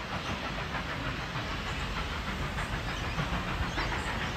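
Train running past on the tracks: steady wheel-on-rail noise with faint, irregular clicks.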